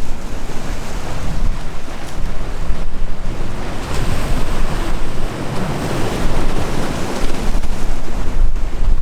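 Sea waves breaking and washing, with heavy wind buffeting the microphone. A bigger surge of water builds about halfway through.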